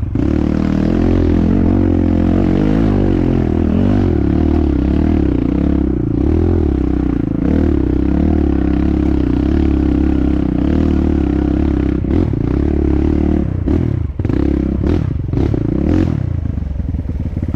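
Dirt bike engine running under load on a trail, its pitch rising and falling with the throttle. In the last few seconds the engine note dips several times, with a few sharp knocks.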